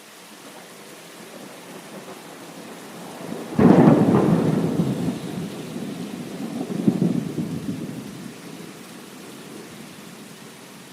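A thunderclap breaks out suddenly about three and a half seconds in over steady rain, then rumbles on with a second swell about three seconds later before fading back into the rain.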